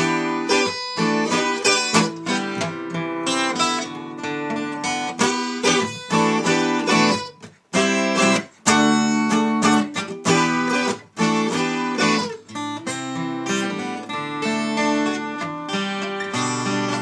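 Acoustic plucked string instrument strummed in rhythmic chords, with a few brief breaks between phrases.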